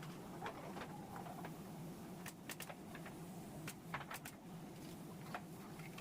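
Scattered light clicks and taps from work on a timber build, most of them between about two and four and a half seconds in, over a steady low hum.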